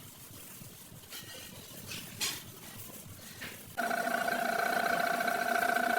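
Faint clicks and taps, then almost four seconds in a machine switches on abruptly and runs with a steady, even hum.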